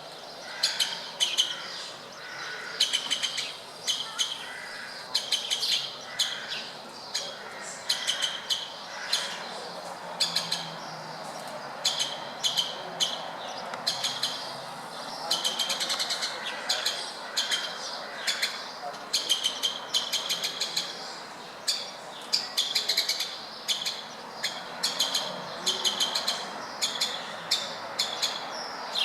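Woodpeckers calling: a steady run of short, high-pitched chattering bursts, each made of rapid notes, repeating about once a second.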